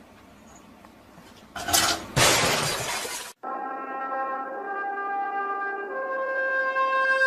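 A loud crash of something breaking, in two hits about half a second apart, then, after a sudden cut, music with long held chords.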